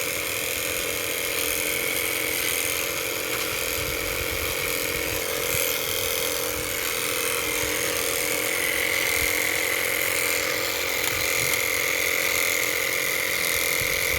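Toy motorcycle's small electric motor running with a steady whine, which rises slightly in pitch about halfway through.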